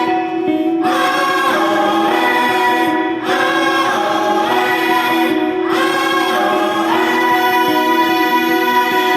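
Live music: a woman singing long, gliding vocal phrases with short breaks between them, over a steady held drone.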